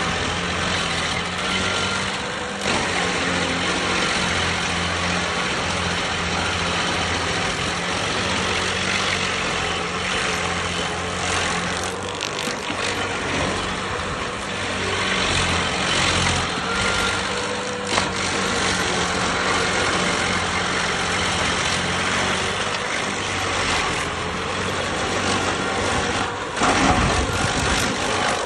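Stump grinder running steadily: its engine hums under a dense hiss as the cutter wheel grinds into a tree stump. Near the end there is a louder surge in the low end.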